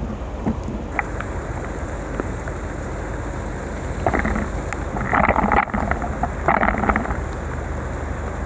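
Steady rush of rain and wind noise on a bicycle ride through a downpour, with several louder bursts of hiss about four to seven seconds in.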